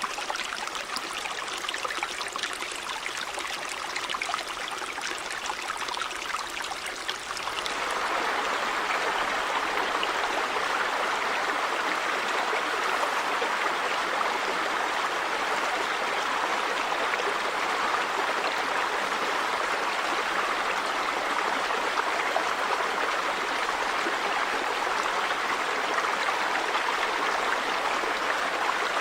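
River water running in a steady rush. About seven seconds in the flow turns suddenly louder and fuller, then holds steady.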